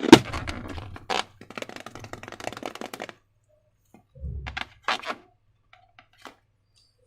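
Hands squishing and working slime and rubber balloons: a sharp click, then about three seconds of sticky crackling and clicking, a soft low thump, and a few scattered clicks.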